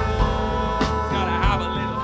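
Live funk and soul band playing an instrumental passage: drum hits over bass and held chords.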